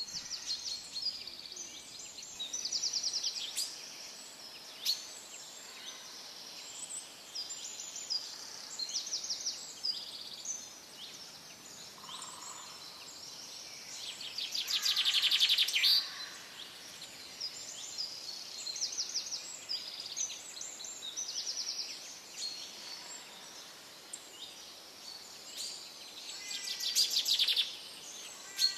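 Birds chirping and singing throughout: many short high calls and quick trills, loudest in a long trilling call about fifteen seconds in and again near the end.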